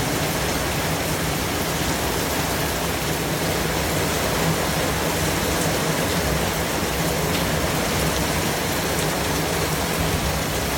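A steady white-noise track: an even, unbroken hiss.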